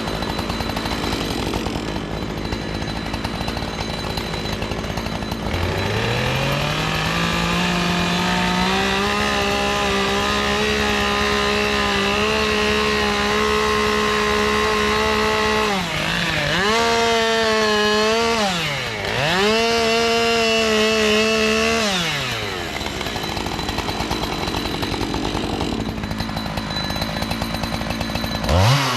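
Two-stroke chainsaw idling, then revved up to full throttle about five seconds in and held there. The revs dip and recover twice, drop back to idle a few seconds later, and rise sharply again near the end.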